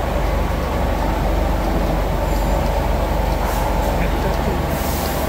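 BMW F30 idling: a steady low engine rumble and hum, with a short hiss near the end.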